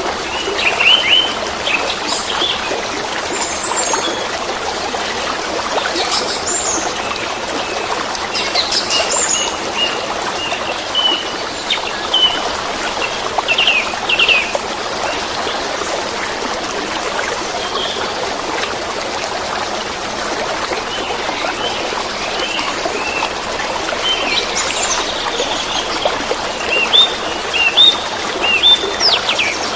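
Running water babbling steadily, with small birds chirping over it in short, scattered calls that come most thickly near the end.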